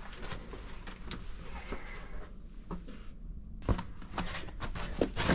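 Boots scuffing and crunching on icy, snowy rock with clothing rustle as a hiker scrambles under a wedged boulder. The scrapes are irregular, with a couple of sharper knocks near the end.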